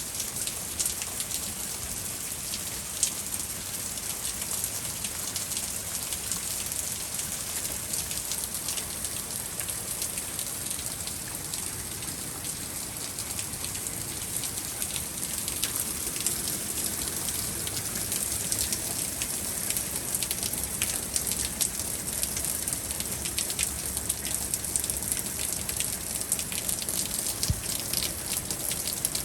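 Steady rain falling in a spring thunderstorm, with many sharp ticks of drops striking hard surfaces, growing a little louder and denser about halfway through.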